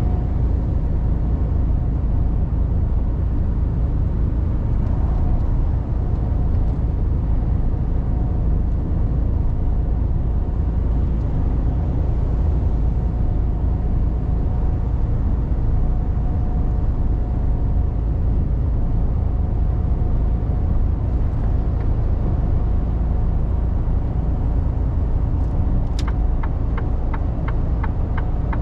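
Mercedes-Benz Actros truck driving, heard from the cab: a steady low diesel engine and road rumble. About two and a half seconds before the end, a quick, even series of ticks begins.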